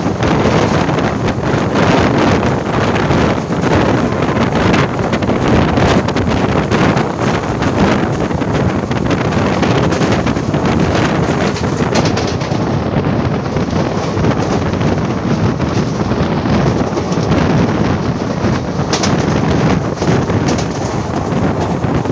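Wind buffeting the microphone on a moving express train, over the steady running noise of the coaches on the track. The noise is loud and even throughout.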